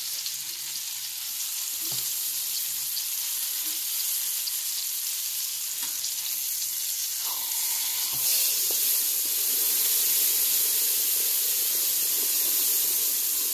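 Portobello mushroom cap sizzling in hot margarine in a stainless steel frying pan, with a few light taps of a slotted spatula on the pan as it is turned and pressed. The sizzle gets louder about eight seconds in.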